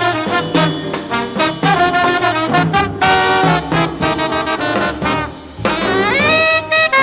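Live bebop jazz sextet playing: trombone and trumpet lead over piano, bass and drums, with a brief drop about five seconds in before long held horn notes.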